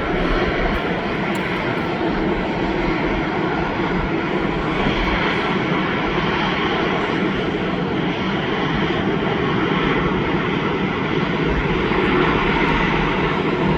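Jet airliner engines running, a loud steady noise that holds without a break.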